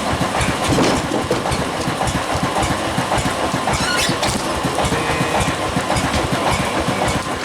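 Sawmill machinery running steadily: an engine with a fast, even beat, with scattered clicks and rattles over it.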